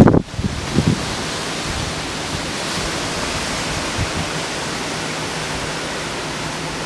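Hurricane-force gusty wind with moderate rain: a steady rushing noise. Gusts buffet the microphone with low thumps at the start, again just under a second in, and faintly about four seconds in.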